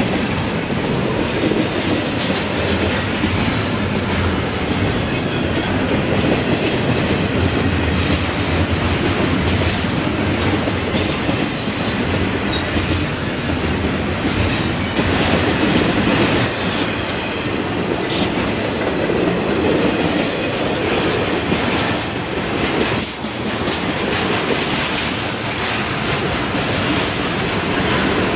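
Double-stack intermodal freight train rolling past close by: a steady rumble and rattle of the well cars, with the clickety-clack of wheels over rail joints and occasional sharp knocks.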